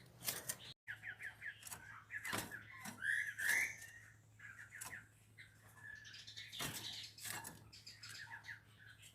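Pancawarna bird chirping in quick runs of short notes, with one louder chirp a few seconds in, sharp clicks in between and a faint low hum underneath.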